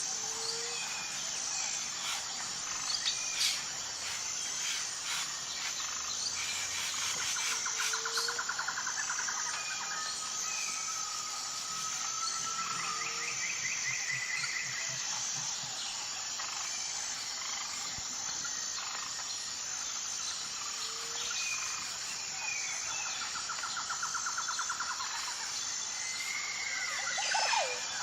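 Wild birds calling, with whistled notes, short glides and fast trills coming every few seconds, over a steady high-pitched insect chorus. Short low notes repeat now and then, and there is a louder call cluster near the end.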